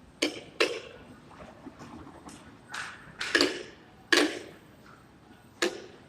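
Construction-site impact noise: about six sharp, irregular bangs, some in quick pairs about a third of a second apart, each ringing briefly.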